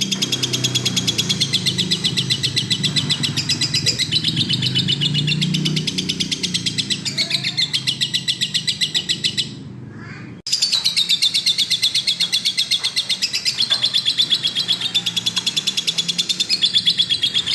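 Lovebird chattering a long, fast run of repeated high chirps, the continuous 'gacor' song that bird keepers prize. The run breaks off for about a second near the middle and then starts again.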